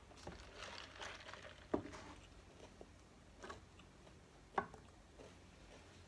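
Close-miked eating sounds: soft mouth noises and rustling with a few sharp clicks, the two loudest about two seconds in and again later on.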